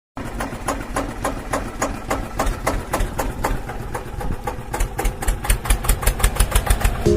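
Small motor of a homemade model tractor running, with a rapid, regular ticking that quickens slightly toward the end.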